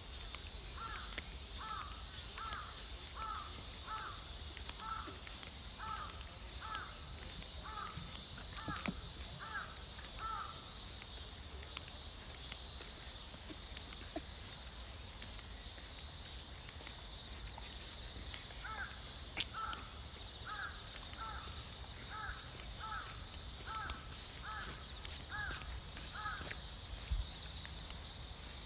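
A bird calling in two long runs of short, repeated notes, about two a second; the first run stops about ten seconds in, and the second starts a little over halfway through and runs for about eight seconds.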